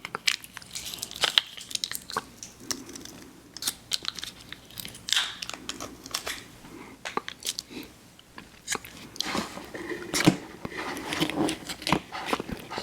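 Close-miked eating of fried fast food: bites and chewing with crisp, irregular crunches and wet mouth clicks, busiest near the end.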